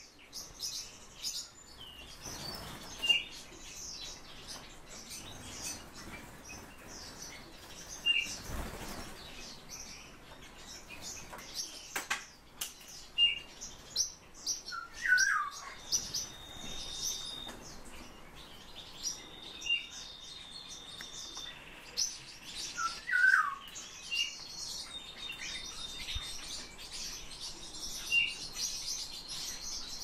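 Small songbirds calling: short high chirps every couple of seconds, with a few longer, steady high notes. Twice, once about halfway through and again some eight seconds later, a short run of falling whistled notes.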